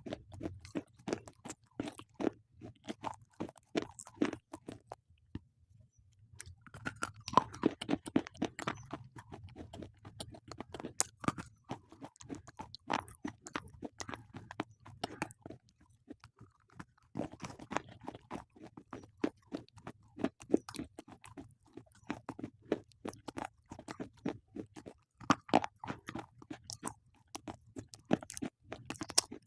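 Slate pencils being bitten and chewed: rapid, dry crunching with brief pauses about five seconds in and again around sixteen seconds.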